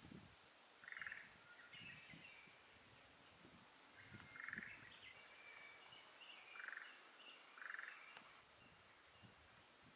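Frogs calling in short pulsed trills, each about half a second long and repeated four times at uneven intervals. Faint high bird chirps come in between the trills.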